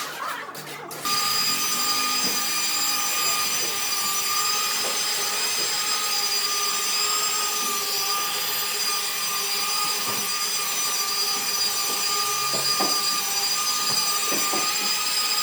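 An electric power tool running steadily at constant speed with a high whine, starting about a second in.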